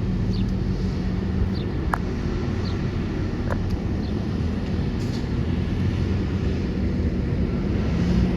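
Car on the move: a steady low engine and road rumble, with a few light clicks.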